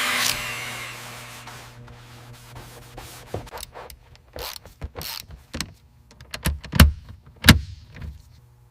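A hiss fades out over the first two seconds. Then comes a run of sharp clicks and knocks, with two heavy thuds close together about seven seconds in, over a faint low steady hum.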